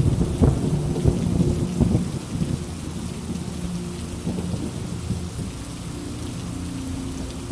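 Steady rain with a roll of thunder: it rumbles loudest in the first two seconds or so, then dies away over the next few seconds while the rain hiss goes on.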